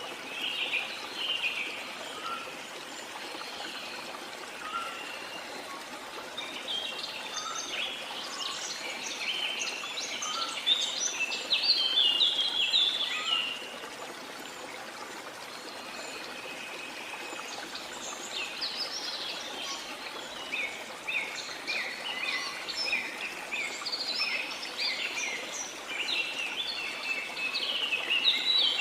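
Many small songbirds chirping and twittering in busy spells, thinner for a few seconds about halfway through, over a steady wash of sea water.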